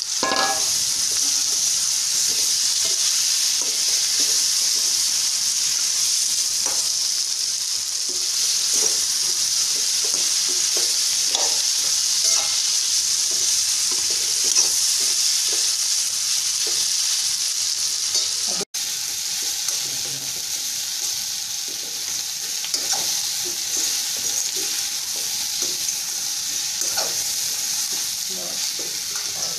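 Elephant foot yam pieces sizzling in oil in a stainless steel kadai, a steady hiss, while a metal spatula stirs them, scraping and tapping against the pan now and then.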